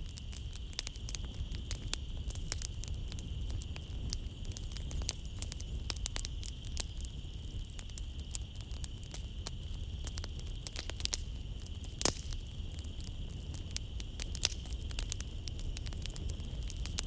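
Wood fire in a fireplace crackling, with irregular sharp pops and snaps over a low rumble of burning. The strongest pop comes about twelve seconds in. A steady high-pitched chirring of night insects runs underneath.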